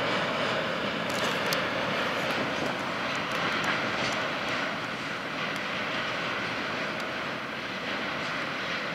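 Train of rail tank cars hauled by a TGM6D diesel shunting locomotive, rolling along the track with a steady rumble of wheels and engine that slowly fades as it moves away, with a few faint high clicks from the wheels and rails.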